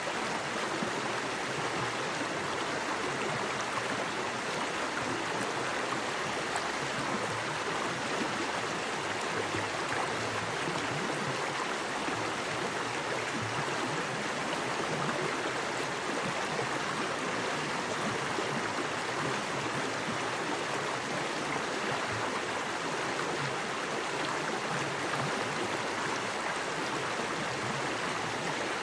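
Small forest creek running fast over rocks: a steady, even rush of water with no pauses or changes.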